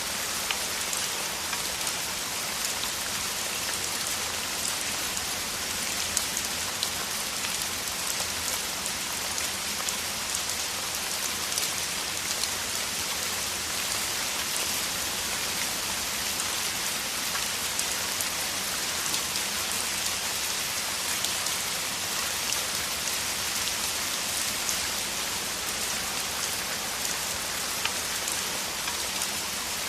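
Heavy, steady rain falling on surfaces, a constant hiss with many small drop ticks scattered through it.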